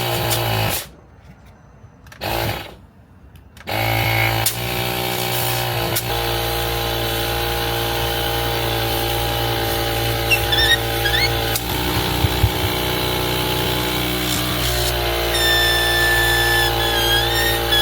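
Air compressor running with a steady hum. It stops for about three seconds near the start, with one short burst in between, then runs on. Thin high whistles of escaping air come near the end.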